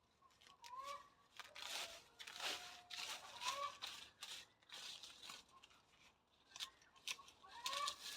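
Comfrey being pulled back by hand, its stems and leaves tearing and rustling in irregular bursts. A bird gives short rising chirps three times.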